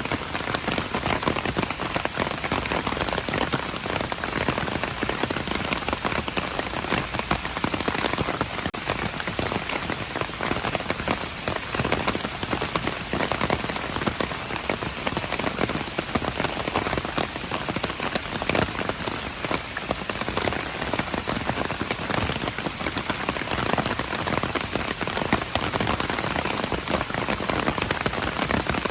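Steady rain falling and pattering on hard surfaces, a dense even hiss full of small drop impacts.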